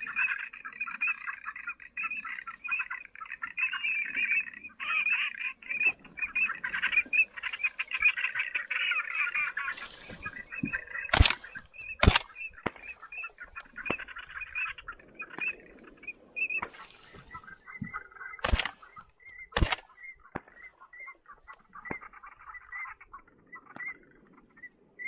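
Waterbirds calling in a dense chatter that thins out about ten seconds in, broken by four gunshots in two quick pairs, each pair about a second apart, the first pair a little past the middle and the second about seven seconds later.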